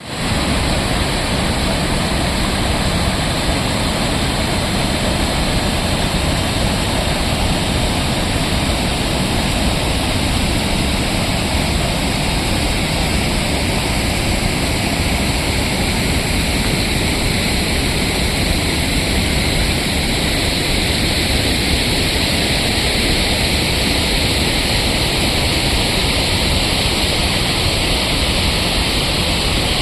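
Waterfall on the Tosna river: water pouring over a low ledge in a steady, loud rush.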